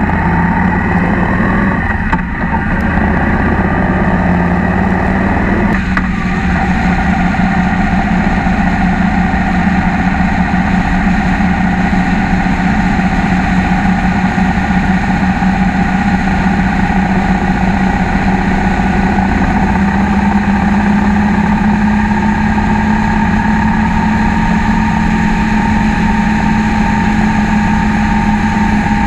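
Cruiser motorcycle engine running under way: it pulls out, its note breaks and changes twice in the first six seconds as it shifts up, then holds a steady cruising drone, rising slightly about two-thirds of the way through.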